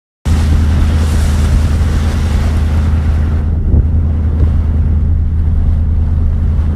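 Steady loud wind rumble on the microphone aboard a motorboat under way, with the rush of water beneath it; it cuts in abruptly just after the start.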